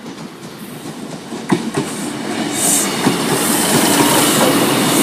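Class 156 Super Sprinter diesel multiple unit passing at close range: its wheels clatter over the rail joints with a few sharp clicks, and it grows louder for about three seconds, then holds steady.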